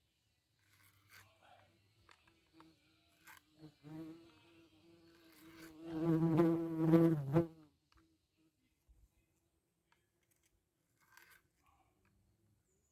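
A flying insect buzzing close to the microphone: the buzz grows louder about four seconds in, peaks briefly, then cuts off suddenly. A few faint clicks are heard around it.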